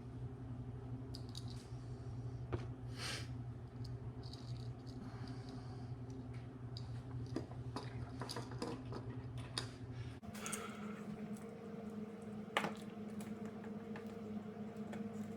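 Scattered light clicks and rattles of small alternator parts and tools being handled, over a steady low hum that changes abruptly about ten seconds in.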